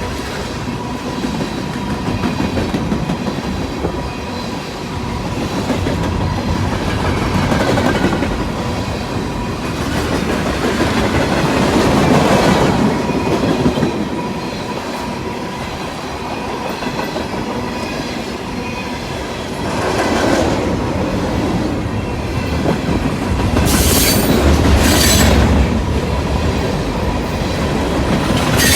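Freight train cars rolling past, wheels clacking over the rail joints, with short high wheel squeals from the curve near the end.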